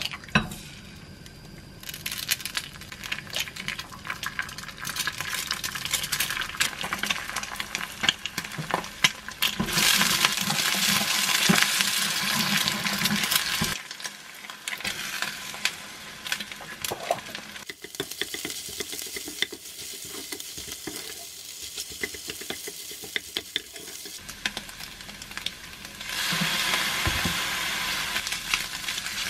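Eggs sizzling in hot oil in a ceramic frying pan, with a wooden spatula stirring and clicking against the pan as they are scrambled and then stir-fried with rice. The sizzle starts a couple of seconds in, is loudest about ten seconds in, dies down a few seconds later and picks up again near the end.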